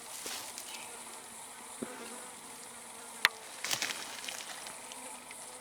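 Insects buzzing steadily in the background, with one sharp click a little past halfway and a soft rustle just after it.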